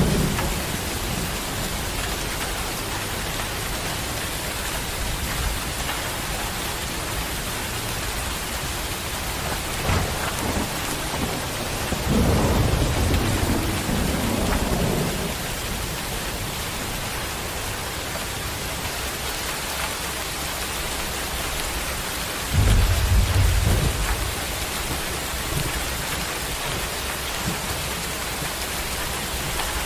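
Heavy rain pouring steadily. Two low rumbles stand out: a longer one a little before the middle and a shorter one that starts suddenly about three-quarters of the way through.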